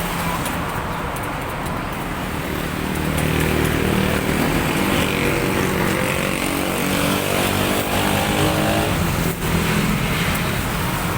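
Road traffic: a passing motor vehicle's engine, its pitch slowly rising from a few seconds in, over a steady traffic hum.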